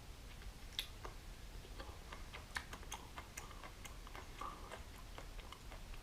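Faint, irregular small clicks and taps from handling and eating a raw razor clam: shell and mouth noises, several a second, with no steady rhythm.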